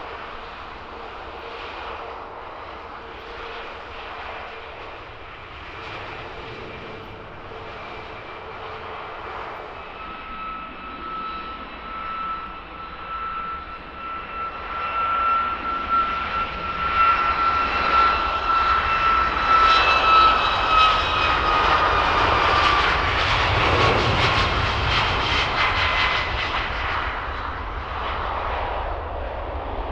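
Jet airliner passing at close range: its engine whine grows louder, then drops in pitch as it goes by, with a deep rumble at its loudest.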